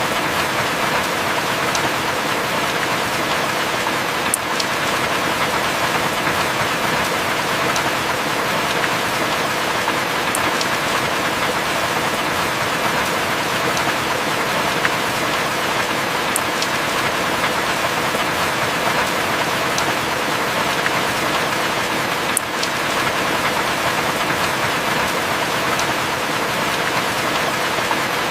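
Heavy rain falling steadily in an even hiss, with occasional sharp drop ticks every few seconds.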